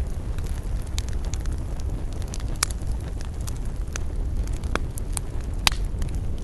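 Wood campfire crackling, with scattered sharp pops, a few of them louder, over a steady low rumble.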